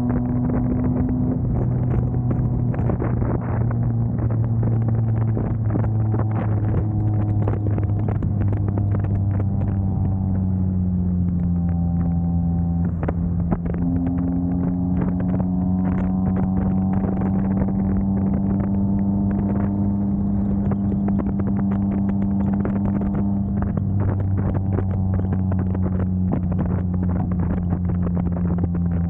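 2000 Honda Civic's D-series four-cylinder engine running while driving, its note shifting down and up in steps several times with throttle and speed, with many short knocks and rattles over it.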